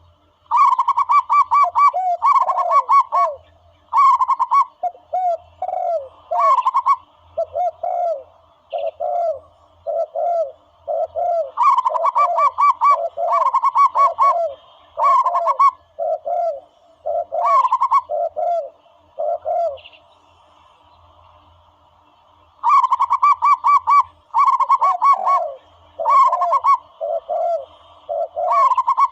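Dove calls played as a hunting lure: bursts of rapid, trilled cooing notes alternating with lower, falling coos, repeating with short pauses and one longer pause about two-thirds of the way through.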